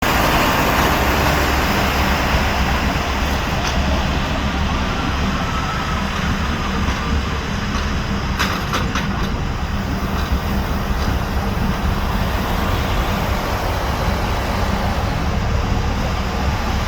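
An airplane landing: steady, loud engine and air noise with a strong low rumble. There is a short cluster of sharp clicks about eight and a half seconds in.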